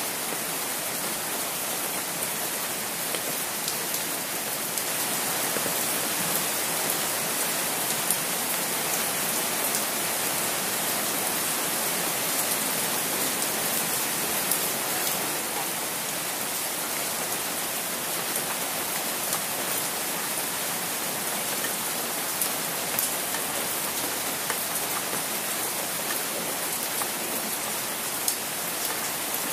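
Steady rain falling, heard from under an umbrella, with many scattered sharp ticks of single drops striking close by.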